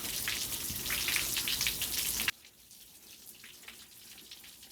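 Churning, spattering water from a 2006 Nissan 15 hp four-stroke outboard just started for the first time and running in water. About two seconds in the sound drops away suddenly, leaving only a faint crackle.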